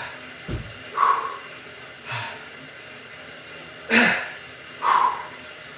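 A man breathing hard, winded from exercise, with loud breathy exhales every second or two.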